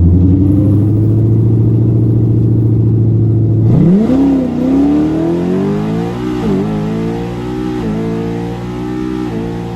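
Loud car engine holding a steady low drone, then, about four seconds in, revving up sharply and accelerating hard. The pitch keeps climbing through three brief dips.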